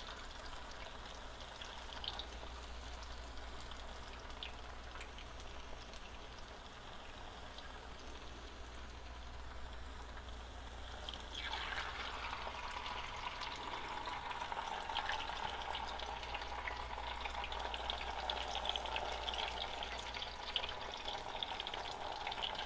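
Cassava (mogo) pieces deep-frying in vegetable oil in a pan, giving a steady crackling sizzle. About halfway through, the pieces are turned in the oil and the sizzle becomes louder and busier.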